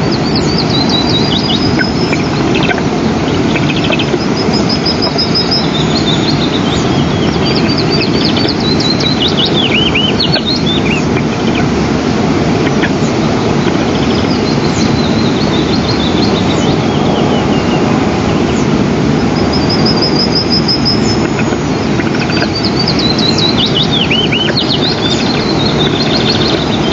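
Birds chirping, with repeated short high trills and falling whistled notes, over a loud, steady low rushing noise.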